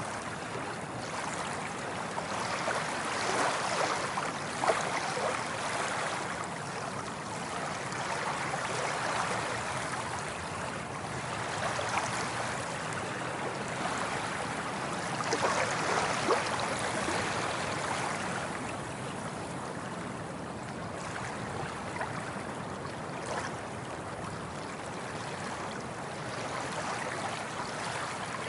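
Waves washing in, a continuous rush of water that swells and eases every few seconds, with small splashes and gurgles.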